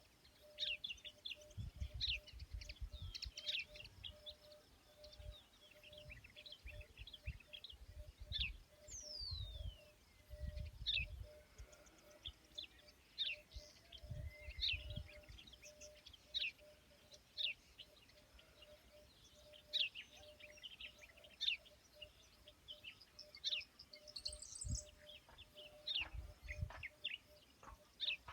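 Birds chirping and calling: many short chirps overlapping, with one long whistle falling in pitch about nine seconds in. Low rumbling comes and goes underneath.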